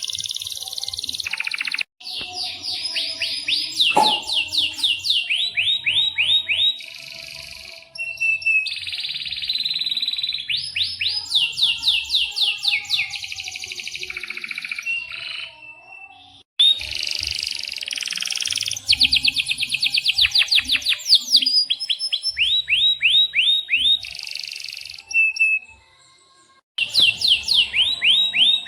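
Domestic canary singing long, loud song phrases: fast rolling trills of rapidly repeated notes and quick pitch sweeps. The song breaks off abruptly and resumes several times.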